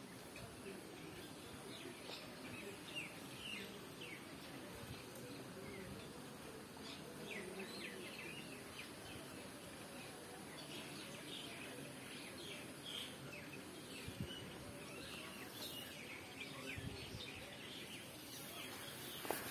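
Birds chirping faintly outdoors: many short high chirps scattered throughout over a low, steady background hum.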